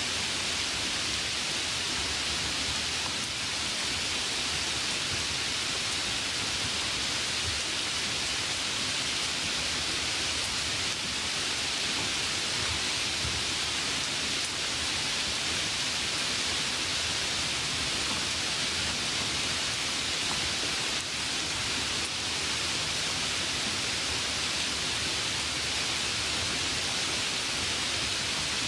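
Steady, unchanging hiss, bright and even, with no distinct events standing out.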